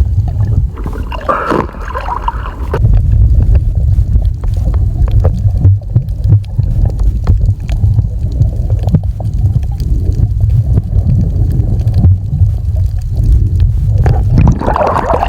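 Water heard through an action camera held underwater: a steady, muffled low rumble with small clicks and gurgling.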